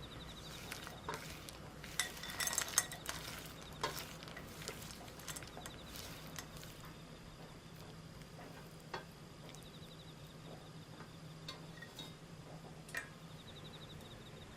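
Light, irregular clinks and taps of kitchen utensils against a bowl, busiest a couple of seconds in, over a faint steady hum.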